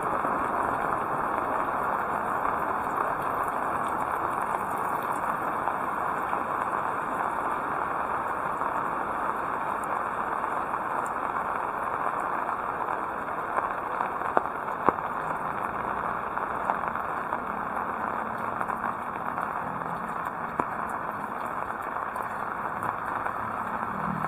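Heavy rain falling steadily, a dense even hiss, with a few sharp taps about halfway through. Near the end a motor vehicle's engine hum rises in the background.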